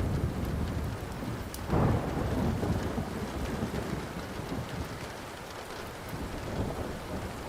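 Thunder rumbling over steady rain, with a fresh roll of thunder swelling about two seconds in and slowly dying away. A few faint crackles from a wood fire.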